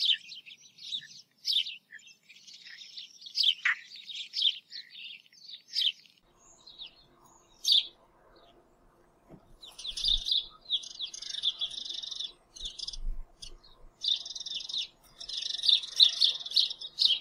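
A small bird chirping and twittering in quick runs of high notes, with short pauses between runs. A few faint low knocks come in the middle.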